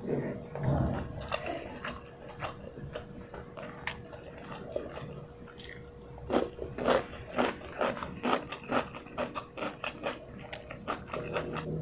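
Close-miked chewing of a handful of rice. From about halfway there is a run of crisp crunches, several a second, as a raw cucumber slice is bitten and chewed. A faint steady hum sits underneath.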